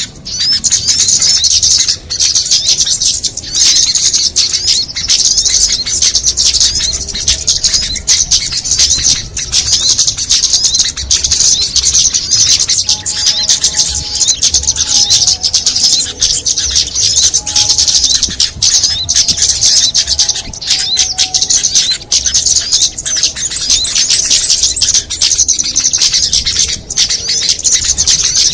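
Many small songbirds chattering together in a bird-lure recording: a dense, continuous mass of rapid high-pitched chirps and trills that dips briefly every few seconds, with fainter, lower whistled notes in the middle.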